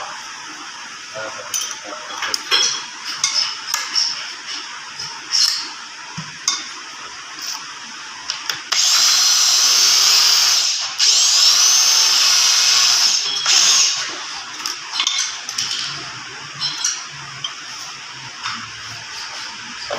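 Power tool polishing the valve seats in a diesel engine's cylinder head: a loud steady high-pitched run of about two seconds, a brief stop, then about two and a half seconds more, midway through. Scattered metal clicks and scrapes come before and after.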